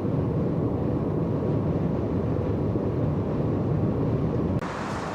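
Steady low road rumble of a moving car, tyre and engine noise with no distinct events. Shortly before the end it changes abruptly to a thinner, hissier background.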